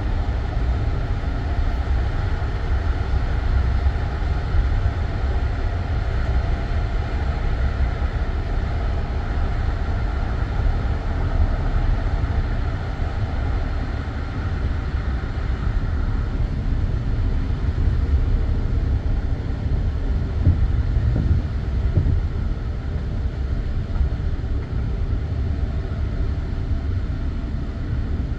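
Passenger train carriage running on the rails, a steady low rumble with the clatter of the wheels, heard from inside the coach.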